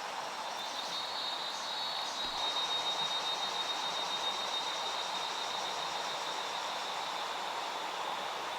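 Insect trilling in a fast pulsing high tone that sets in about half a second in and holds steady, over a constant rushing background noise.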